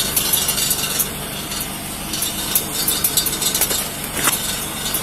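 A vehicle engine idling steadily, with scattered light clicks and rustles close by.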